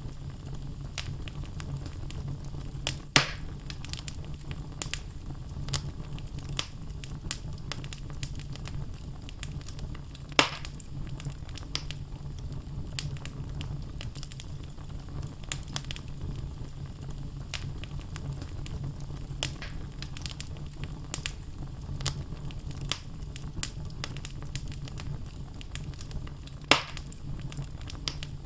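Wood fire burning in a fireplace: a steady low rumble of flames with frequent small crackles from the logs and three louder pops.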